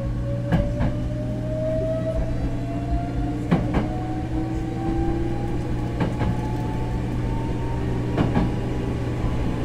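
Hankyu 6000-series electric train running: a steady low hum with a motor whine climbing slowly in pitch as the train gathers speed, and paired clacks of the wheels over rail joints every two seconds or so.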